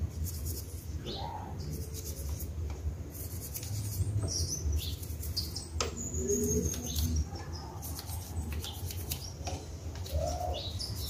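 Small birds chirping now and then, short high calls and brief rising and falling notes, over a low steady rumble.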